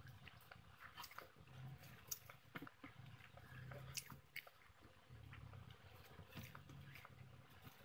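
Faint close-up chewing and eating with the hands: wet mouth clicks and small smacks scattered irregularly as fried fish and rice are eaten.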